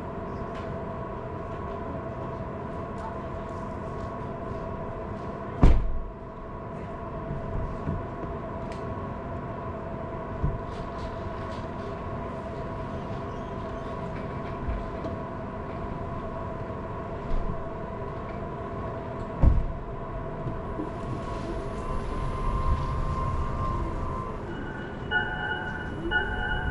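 Car cabin noise while driving on wet roads in the rain: steady road and engine noise with a constant hum, and two loud thumps about six and twenty seconds in. A repeating beeping tone starts near the end.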